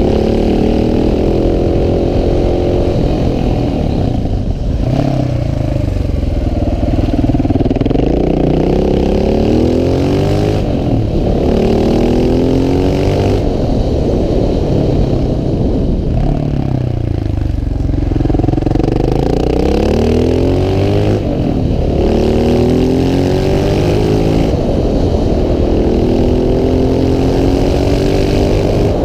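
KTM 690 SMC R's single-cylinder engine under hard riding, its pitch climbing again and again as it revs up through the gears, with brief drops at the shifts and a few falling stretches where the throttle is closed, about every five or six seconds.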